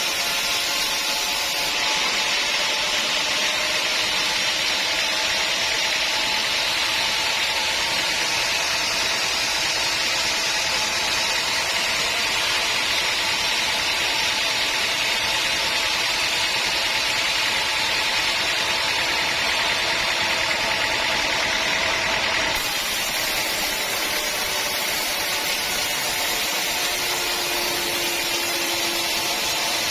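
Sawmill saw running steadily through a teak log. The noise changes abruptly about two seconds in and again about three-quarters of the way through.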